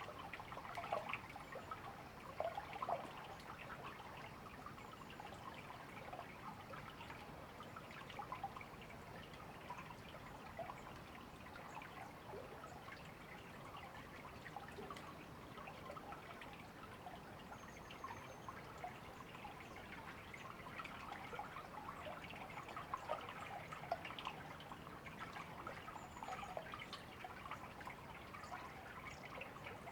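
A small river or stream babbling and trickling over stones, a steady patter of little splashes and gurgles. A few faint, short, high bird chirps come through now and then.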